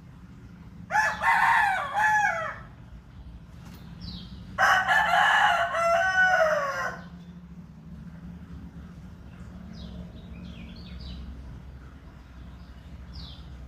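A rooster crowing twice, each crow lasting about two seconds. Between and after the crows come a few short, faint, high chirps from a small bird.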